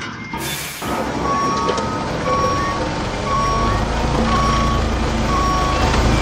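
Vehicle reversing alarm beeping at a steady pitch about twice a second over a low engine rumble, which grows louder about three seconds in. A short whooshing rush comes just before the beeps start.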